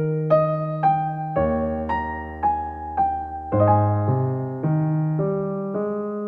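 Slow, gentle electric piano music: single melody notes struck about twice a second over held low bass notes.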